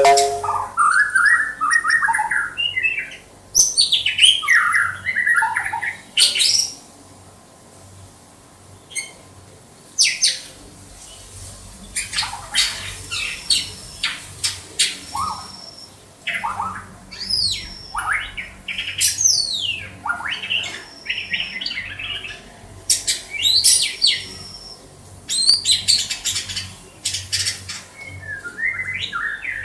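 White-rumped shama singing: varied phrases of clear whistles, quick sweeping notes and sharp calls, separated by short pauses, with a quieter stretch of a few seconds after the first phrases.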